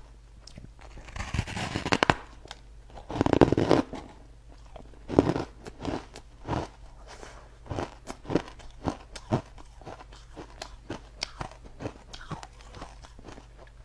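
Ice being bitten and crunched between the teeth close to the microphone: two big crunching bites in the first few seconds, then a run of chewing crunches about every half second that grow fainter.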